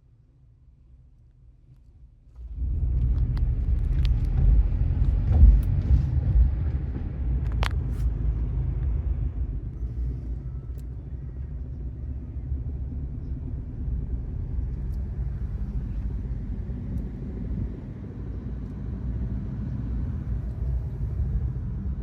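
A low rumble of a vehicle in motion starts suddenly a couple of seconds in and runs on steadily, with a few sharp clicks and knocks in the first half.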